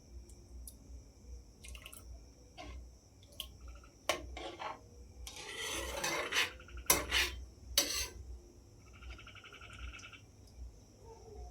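Metal cookware and utensils clinking, knocking and scraping, with a longer scraping stretch about five seconds in and sharp knocks shortly after. A steady high hiss runs underneath, and a short buzzing trill comes near the end.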